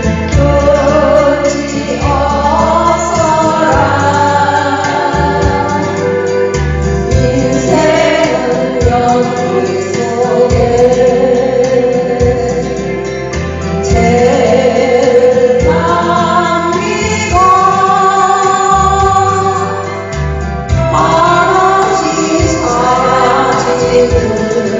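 An elderly woman singing a 1970s Korean folk song over a backing track with sustained bass notes.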